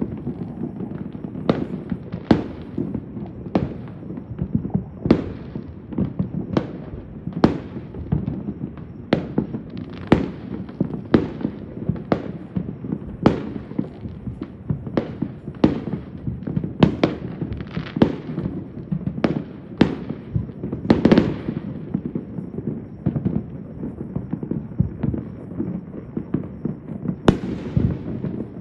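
Fireworks and firecrackers going off all over the city at once: sharp bangs at uneven intervals, about one a second, over a constant low rumble and crackle of more explosions. About 21 seconds in, a longer crackling run stands out.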